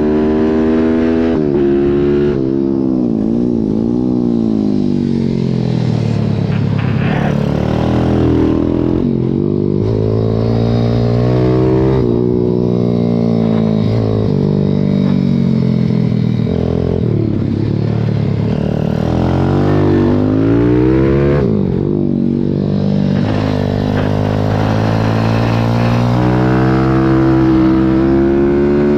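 Pit bike's single-cylinder engine heard from on the bike, revving hard with its pitch climbing and dropping again and again every few seconds.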